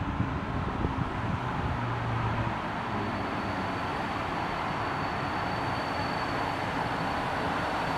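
EP09 electric locomotive hauling a passenger train on approach, a steady rumble of wheels and running gear growing slowly louder as it nears. A thin high whine comes in a few seconds in.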